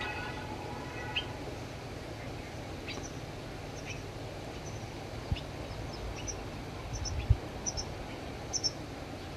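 Small birds chirping: short, high calls, often in quick pairs, repeating every half second or so over a steady outdoor hiss. A few dull low thumps fall about five and seven seconds in.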